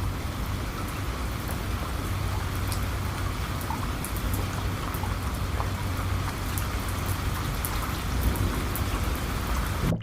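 Steady rain falling, with scattered sharp drop ticks over an even hiss and a constant low rumble.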